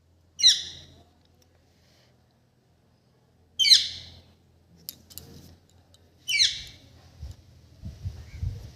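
A green parrot gives three short, harsh squawks, spaced about three seconds apart.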